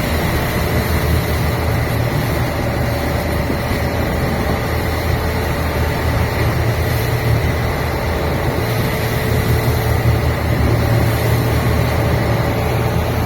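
Fishing boat's inboard engine running steadily, a loud, even drone.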